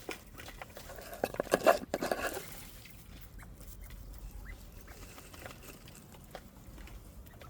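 Bobwhite quail pecking at and crunching mealworms: a dense flurry of clicks and rustling a second or so in, then soft, scattered pecking ticks.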